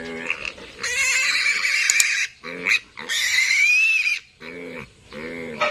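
Piglets squealing: two long, loud, shrill screams, with short low grunts between and after them. This is the distress screaming of piglets handled for castration.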